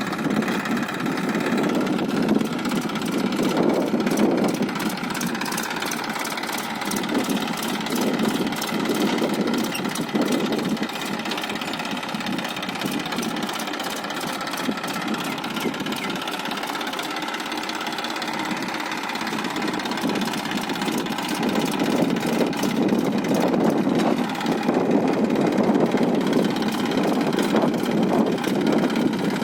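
Massey Ferguson 1035 tractor's diesel engine running steadily with an even, rapid pulsing, growing somewhat louder for stretches early on and again near the end.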